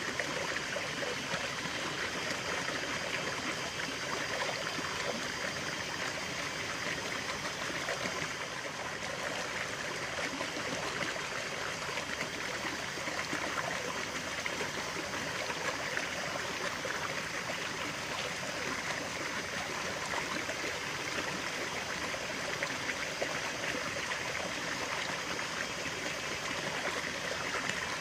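Stream water running and trickling steadily, a continuous even rush with no pauses.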